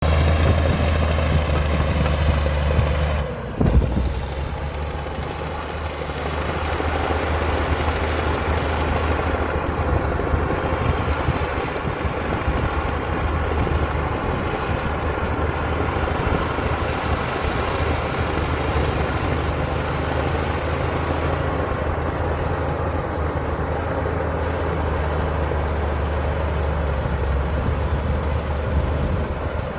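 Komatsu D60P bulldozer's diesel engine running steadily under load, with a sharp knock about four seconds in.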